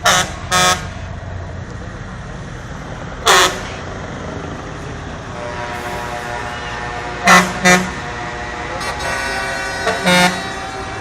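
Truck air horns sounding in short, loud blasts, about six of them, some in quick pairs, over a steady low background of running engines. A longer steady horn-like tone holds through the second half.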